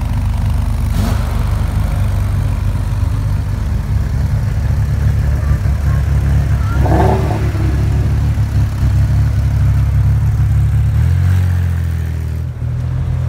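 Deep, steady rumble of a Shelby Mustang's V8 engine idling as the car rolls slowly in a line of cars, its note shifting lower about eleven seconds in.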